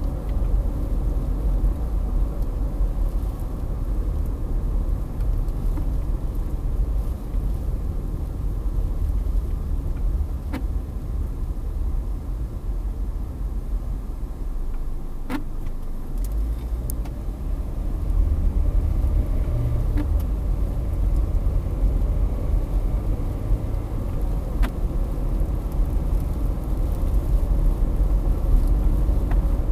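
Car driving, heard from inside the cabin: a steady low rumble of road and wind noise that eases a little midway and builds again, with a few faint clicks.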